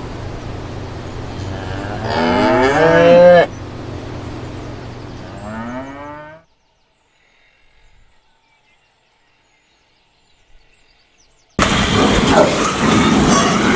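Cow mooing: one loud moo about two seconds in, then a softer, shorter moo, over a steady low hum. After several seconds of near silence, a loud, noisy animal sound starts abruptly near the end.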